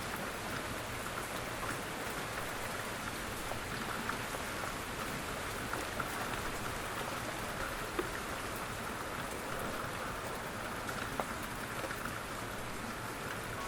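Steady rain falling on a surface, a soft even patter with scattered individual drip ticks, a few of them a little louder.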